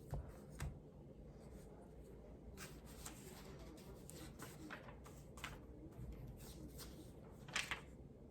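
Faint clicks and light rattles of plastic LEGO pieces being handled, with two soft bumps near the start and a louder pair of clicks near the end.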